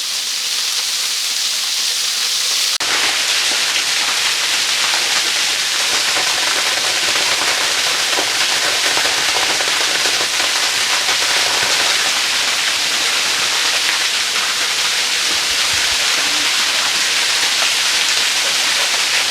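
Waterfall pouring, a steady loud rush of falling water that grows fuller about three seconds in.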